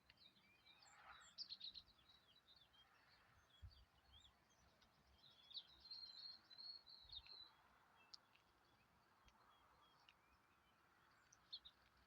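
Faint songbirds chirping: scattered quick high chirps, then a rapid trill of even notes lasting about two seconds near the middle, with a few lone chirps afterward.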